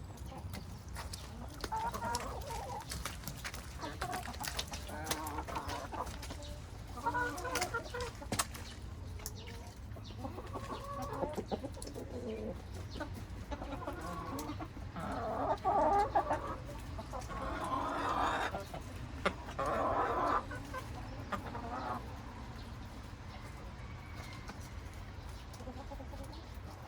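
A flock of chickens clucking, with repeated short calls that come thickest and loudest around the middle.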